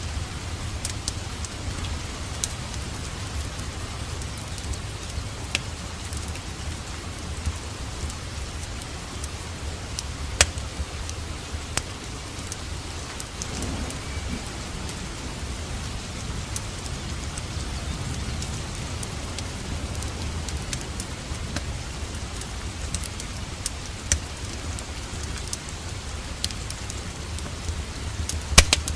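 Steady rain with a deep low rumble underneath. Sharp crackles and pops from a burning wood fire come every few seconds.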